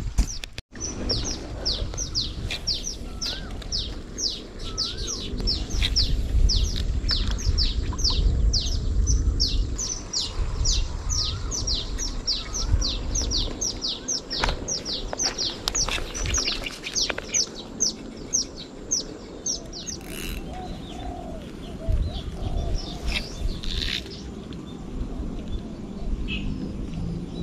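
A bird calling a rapid, regular series of short, high, downward-sliding notes, about three a second, that stop about twenty seconds in, followed by a few scattered chirps, over a low rumble.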